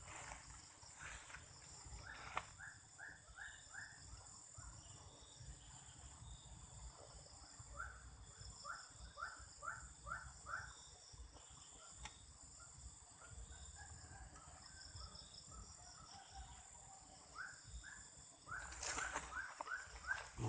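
A bird calling in short runs of quick falling notes, repeated several times over a steady high insect drone.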